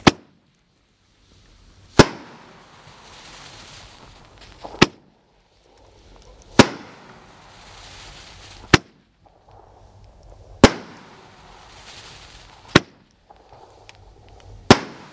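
'High Def' aerial firework cake firing shots one at a time: eight sharp bangs about two seconds apart, each followed by a fading crackle and hiss as the glittering burst falls.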